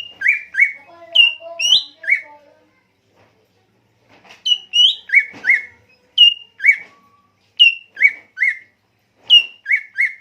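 A songbird singing short, clear whistled notes that each drop quickly in pitch. They come in brief phrases that alternate a higher and a lower note, with pauses of one to two seconds between phrases.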